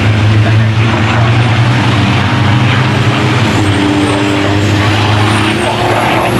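Diesel engines of racing trucks running on the circuit, a loud, steady, deep drone, with a faint high whistle near the end.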